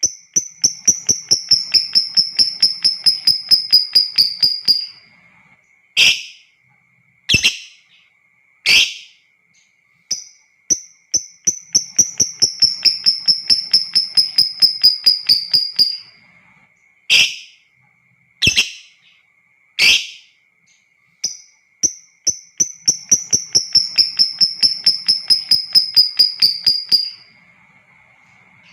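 Lovebird 'ngekek panjang': three long rattling trills of about five seconds each, fast repeated notes whose pitch slides slightly down through each trill. Between trills come three sharp single calls.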